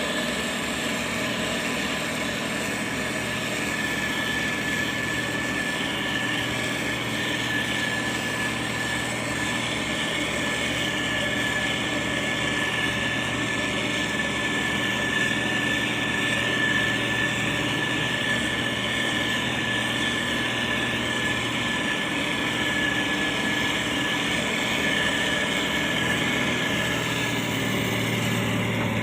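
Motor grader's diesel engine running steadily, with a constant high whine over it.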